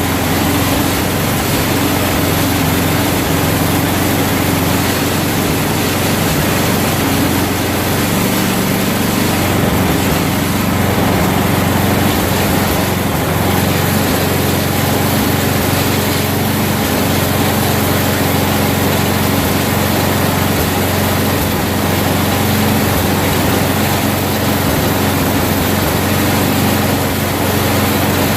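Craftsman 31-inch snowblower's small gasoline engine running steadily on old gas, its pitch shifting slightly a few times.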